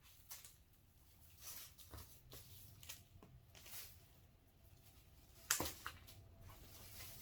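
Faint rustling and scattered clicks of hands handling wreath-making materials, with a sharper click about five and a half seconds in and a smaller one just after.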